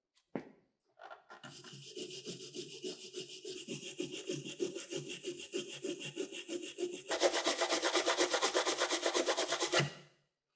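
Rapid, regular back-and-forth rubbing strokes, like sawing, sanding or filing a workpiece. They get louder and harsher about seven seconds in, then stop suddenly.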